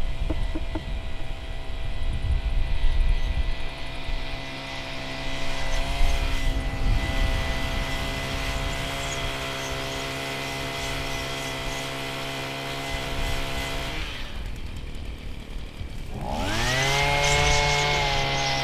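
A motor-driven machine spinning up with a rising whine, then running at a steady pitch, with knocking and rumbling in the first few seconds. It cuts off suddenly about fourteen seconds in and spins up again near the end.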